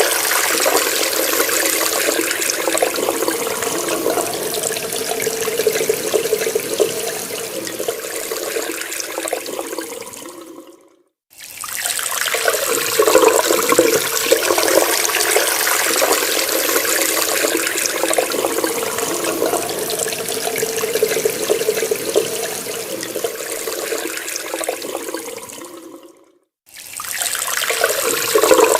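Water running from a tap and splashing into a sink in a steady rush, which fades away to silence about eleven seconds in and again near the end, each time starting again within a second.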